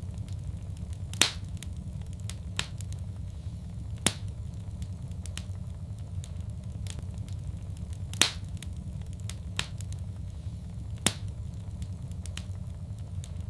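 Wood fire crackling in a fireplace: sharp pops and snaps at irregular intervals, the loudest about a second in and about eight seconds in, over a steady low rumble of the burning fire.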